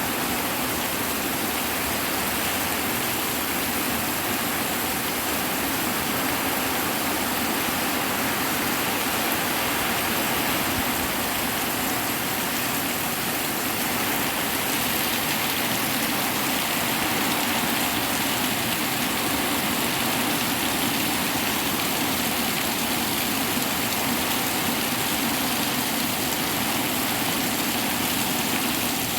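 Hard rain falling steadily, a dense even hiss with no thunderclaps.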